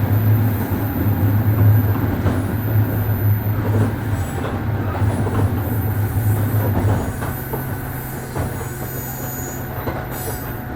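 JR 103 series 1500 subseries electric train running, heard from on board: steady rolling noise of wheels on rail with a strong low hum that cuts off about seven seconds in, leaving quieter rolling noise.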